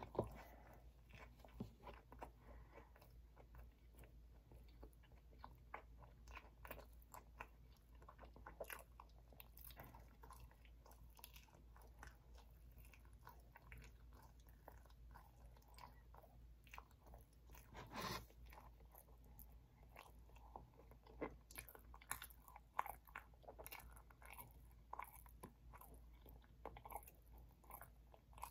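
Faint close-up chewing of soft chocolate Oreo birthday cake: small wet clicks and smacks of the mouth scattered throughout, with one louder click about eighteen seconds in.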